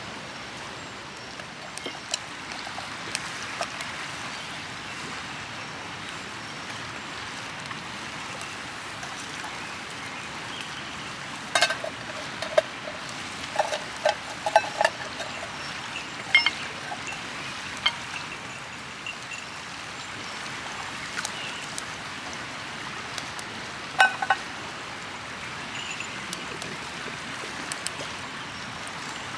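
Steady rush of flowing river water, with a cluster of light metallic clinks midway and one more, louder clink later.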